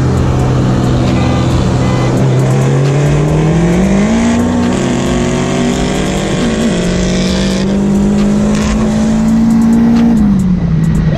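Turbocharged 2.4-litre four-cylinder of a Dodge Neon SRT-4 pulling hard under throttle, heard from inside the cabin. Its note climbs a couple of seconds in, holds high with a brief waver about six seconds in, and drops back near the end.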